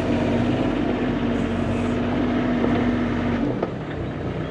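Bobcat E35 mini excavator running under load, a steady engine hum that drops away about three and a half seconds in.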